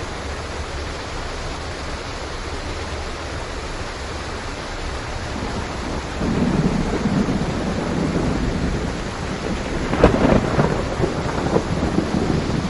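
Steady heavy rain, with a low roll of thunder building about halfway through and a louder thunderclap rumbling near the end.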